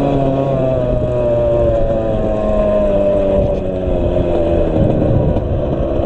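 Suzuki RM85's single-cylinder two-stroke dirt bike engine running under steady throttle, its pitch sagging slowly over several seconds.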